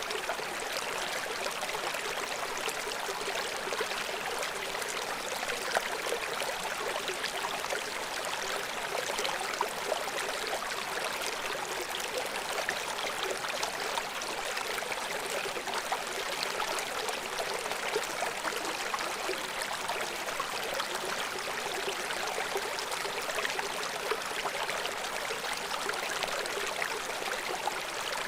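River water flowing and splashing steadily over rocks below a waterfall: an even rushing with fine bubbling and splashes, without low rumble.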